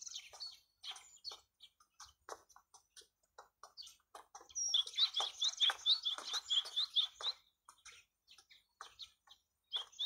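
Small birds chirping in short calls, with a quick run of repeated chirps, about three a second, in the middle.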